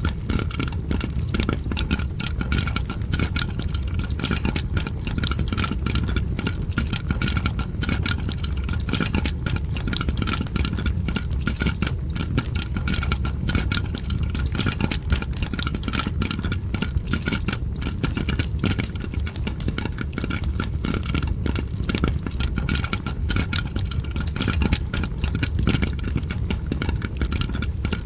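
Popcorn popping layered with a crackling fireplace: dense, continuous crackles and pops over a steady low rumble.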